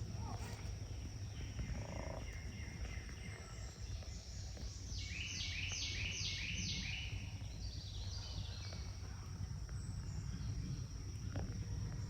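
A bird calling: a quick series of about six sharp, high, downward-slurred notes about five seconds in, and a softer short run a few seconds later, over steady low background rumble and a constant thin high whine.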